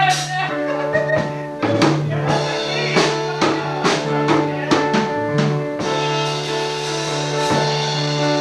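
Band music: drum kit strikes over held keyboard chords and a bass line, with a bright cymbal-like wash coming in about six seconds in.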